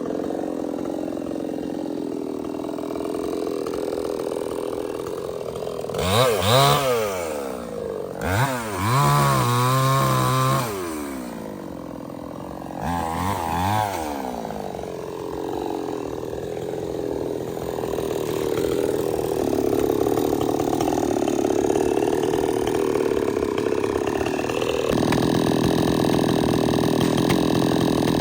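Stihl 070 two-stroke chainsaw running at low speed, then revved hard three times with the pitch swinging up and down. It then settles into steady running that grows louder over the last ten seconds.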